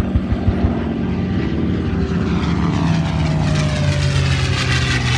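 Propeller warbirds making a low pass, led by a P-51 Mustang with its Packard-built Merlin V-12, the engine note steady and loud and sliding down in pitch as they go by. A few low thumps at the very start.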